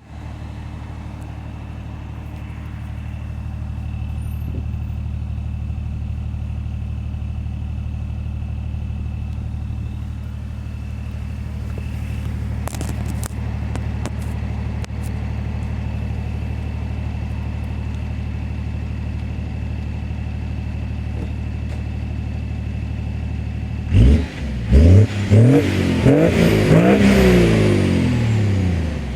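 BMW 525d diesel engine running through a straight-through muffler, idling steadily, then revved in several quick blips near the end, the pitch rising and falling with each.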